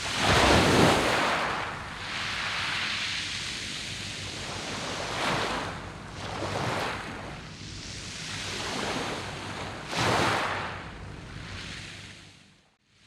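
Sea waves washing onto a beach of round pebbles, in a steady rush with a strong surge at the start and another about ten seconds in, smaller swells between. The sound dies away to near silence just before the end.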